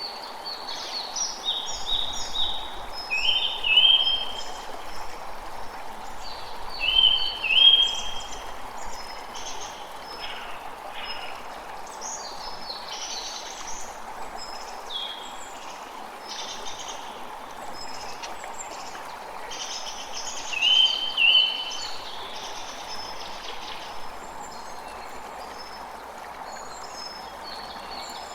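A creek running steadily, with songbirds calling over it. The loudest bird repeats the same short phrase three times: about three seconds in, at about seven seconds, and again about twenty seconds in.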